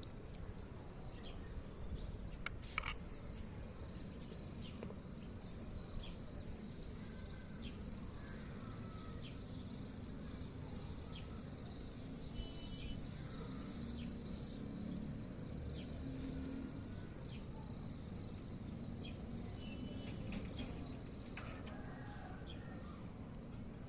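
Outdoor ambience: a steady high-pitched insect trill, like a cricket's, with scattered short bird chirps over a low background rumble.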